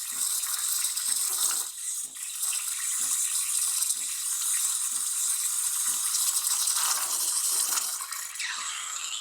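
DeLonghi Dedica steam wand hissing steadily into a pitcher of water. The tip sits just below the surface in the proper frothing position, drawing in a little air without making big bubbles. Faint low pulses recur about once a second under the hiss.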